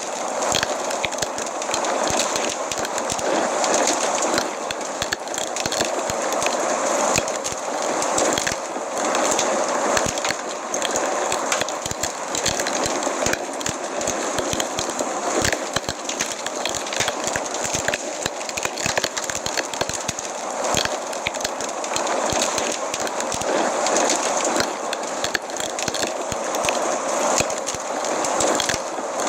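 Wood fire crackling in a fireplace: a continuous hiss with many small, irregular pops and snaps.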